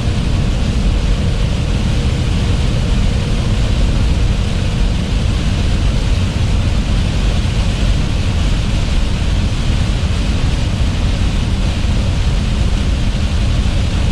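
Steady road noise inside a moving truck's cab in heavy rain: a low engine-and-tyre drone under a constant hiss of rain and water spray.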